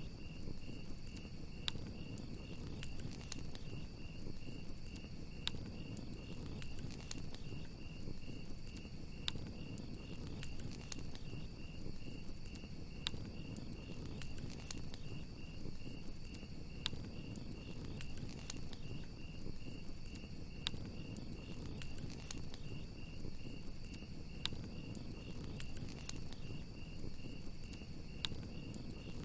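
Campfire crackling, with scattered sharp pops over a low steady rumble of burning, and crickets chirping in a steady, evenly pulsing high trill.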